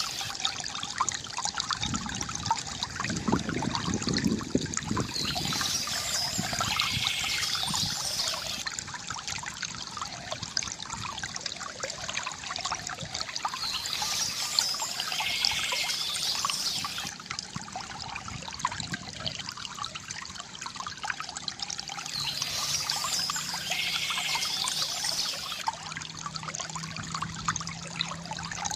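Water trickling and gurgling steadily from a bamboo fountain, with birds chirping in short bouts three times, about every nine seconds.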